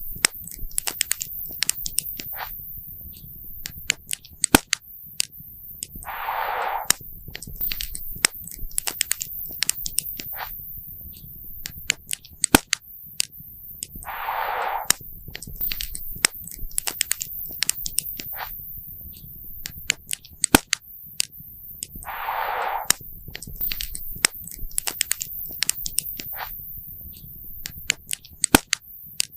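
Campfire crackling, with irregular sharp pops over a low rumble. A brief rushing hiss comes back about every eight seconds, three times.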